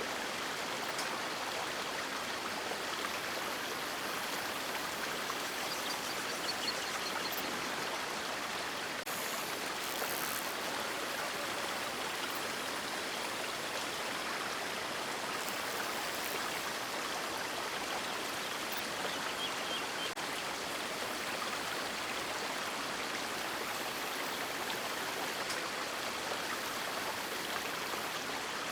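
River water rushing over rocks in a steady, unbroken hiss.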